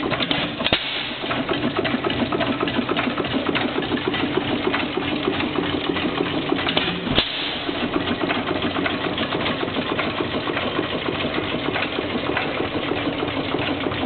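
1909/10 6 hp Racine Sta-Rite hit-and-miss gas engine running steadily with a rapid mechanical clatter. A couple of louder sharp strokes stand out, about a second in and halfway through.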